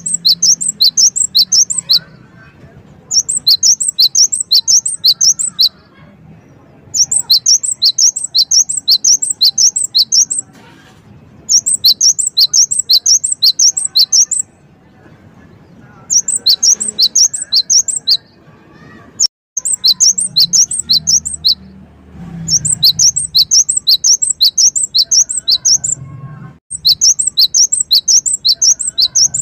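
Gelatik wingko (cinereous tit) singing loudly in repeated phrases of rapid, sharp, high notes, about four a second. Each phrase lasts two to three seconds, with brief pauses between them.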